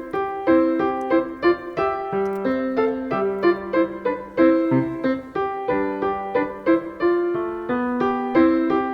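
Solo piano music: a steady run of melody notes over sustained bass notes.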